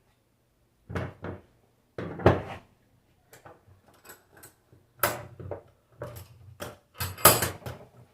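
Metal knocks and clanks as a car alternator is handled and clamped in a bench vise: a run of irregular sharp knocks and clatters, the loudest near the end.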